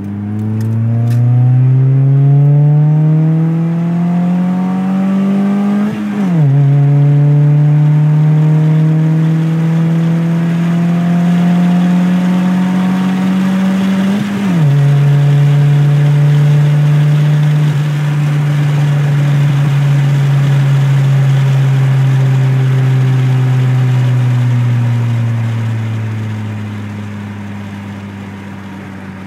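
Honda Civic EG3 accelerating through the gears with a Skunk2 cat-back exhaust, heard from inside the cabin. The engine note rises, drops sharply at an upshift about six seconds in and again near the middle, holds fairly steady for a while, then eases off and falls away near the end.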